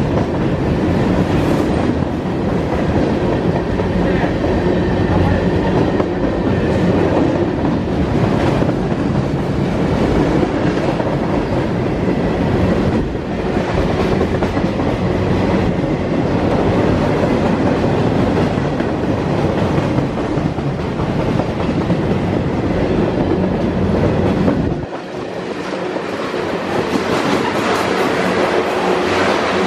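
Freight train of boxcars, a tank car and container cars rolling past at close range: a steady rumble with the clickety-clack of wheels over the rail joints. Near the end the deep rumble drops away suddenly and a lighter rolling sound continues.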